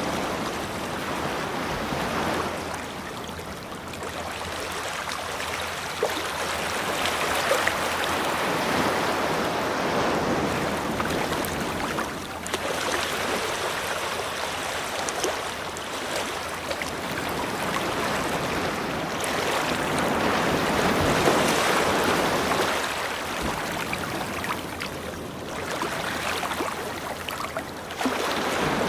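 Ocean waves breaking and washing up a beach, the surf building and easing again every few seconds.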